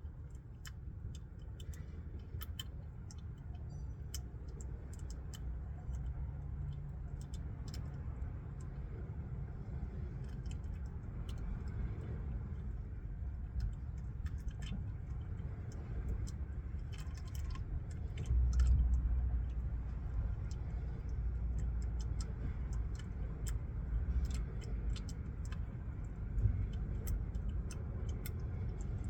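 Irregular light clicks and clinks, like hand tools being handled, over a steady low rumble that swells for a few seconds past the middle.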